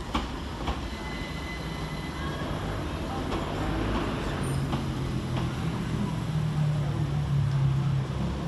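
Class 387 Electrostar electric multiple unit arriving slowly at the platform: steady running noise from the passing carriages, with wheels clicking over rail joints several times, a brief high squeal about a second in, and a low steady hum coming in about halfway through.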